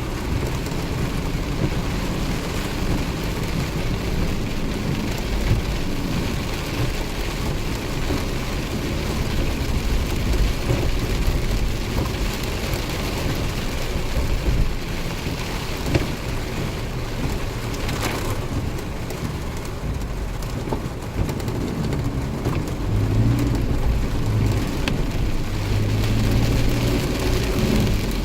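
Heavy rain falling steadily during a thunderstorm, with the low running sound of a vehicle underneath.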